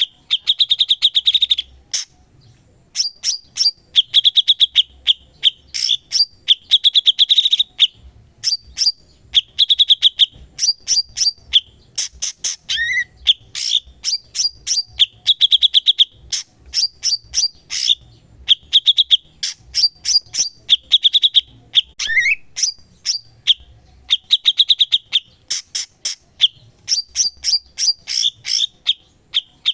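Cucak cungkok singing continuously and loudly (gacor): phrase after phrase, each a quick run of clicking notes followed by a loud trilled note, roughly one phrase every two seconds, with a couple of short sliding notes mixed in.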